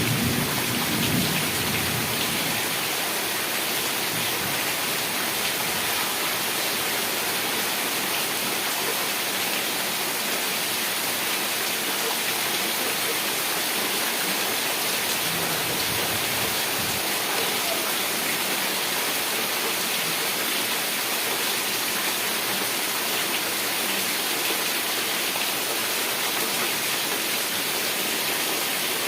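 Heavy rain falling in a steady, dense hiss. In the first couple of seconds a low rumble of thunder dies away beneath it.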